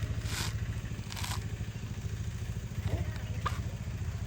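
A small engine runs steadily with a low, fast-pulsing hum. Two short bursts of hiss come in the first second and a half.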